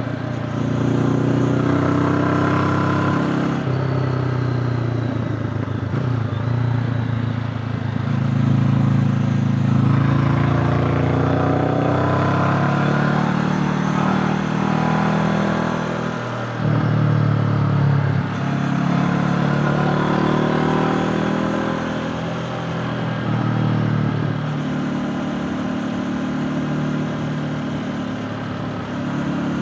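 Honda CB500X's 471 cc parallel-twin engine running under way, its note rising and falling repeatedly with the throttle.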